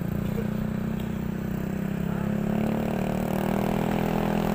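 A vehicle engine running steadily, its pitch rising from about halfway through as it speeds up.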